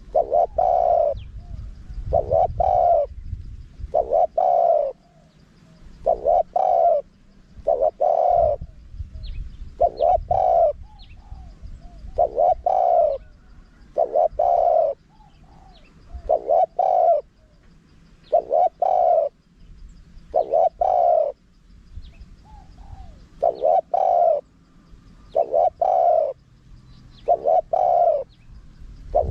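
Spotted dove cooing in the small-voiced wild style: short phrases of several coos repeated about every two seconds.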